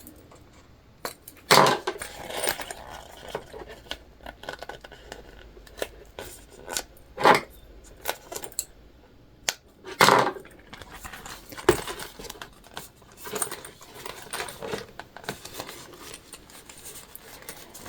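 Scattered clicks, taps and rustles of sewing materials being handled, with occasional scissors snips as loose threads are trimmed. Several sharper clicks stand out, one about a second and a half in and others around seven, ten and twelve seconds in.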